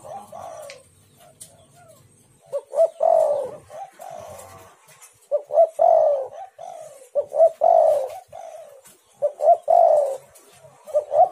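Spotted dove (tekukur) cooing. It repeats its phrase of a couple of short notes and a longer falling coo about every two seconds, five times over. This is the call used to lure and provoke other spotted doves into calling.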